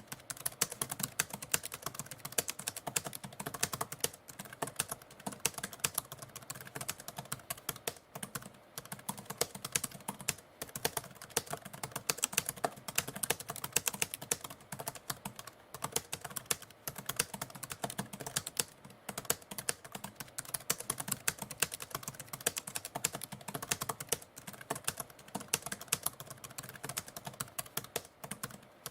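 Typewriter typing: rapid, irregular key strikes several a second, with brief pauses now and then.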